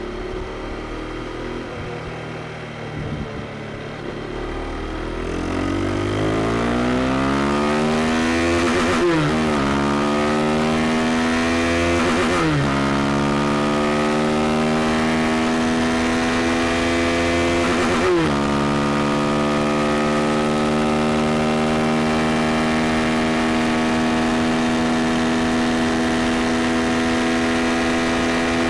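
KTM 390 Duke's single-cylinder engine accelerating hard through the gears. Its pitch climbs, then drops sharply at three upshifts, and after the last shift it holds a high, nearly steady note as the bike runs near top speed.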